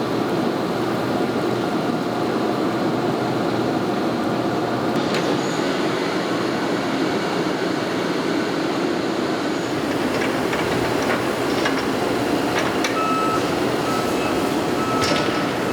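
Steady din of bearing-factory machinery running, with a few sharp clicks and knocks in the second half.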